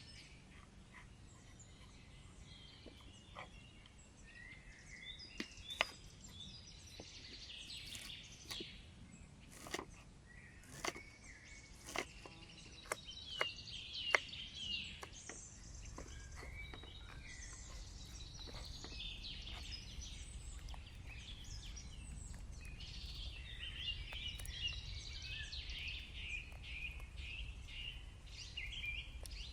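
Wild birds singing and chirping continuously. A series of sharp clicks or knocks comes between about three and fifteen seconds in, and a low rumble sets in about halfway through.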